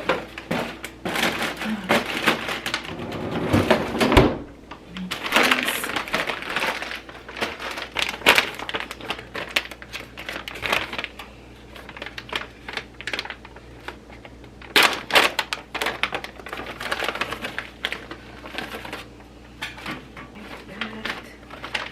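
Kitchen handling sounds: irregular clicks, knocks and clatter with some rustling of packaging, as frozen chicken nuggets and fries are taken out and laid out for cooking.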